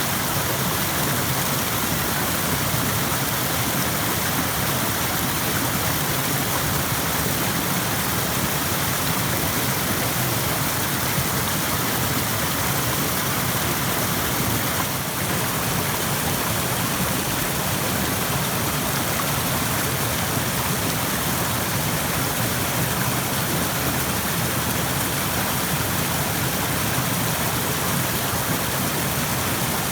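Stream of water rushing steadily over rocks, a dense, even hiss of flowing water.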